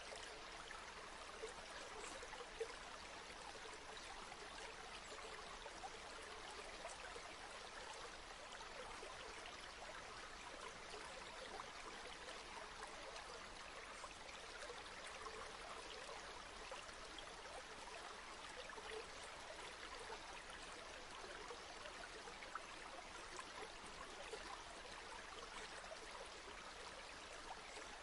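Flowing river water, a faint, steady rushing with small splashes and gurgles scattered through it.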